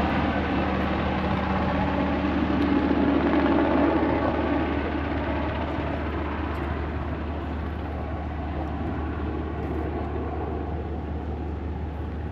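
A steady low engine drone with noise over it. It is louder for the first four seconds, then eases off as a steadier tone fades out.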